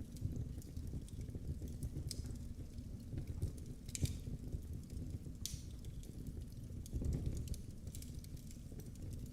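Wood fire crackling, with a steady low rumble under many small sharp pops; two louder pops come about four and five and a half seconds in.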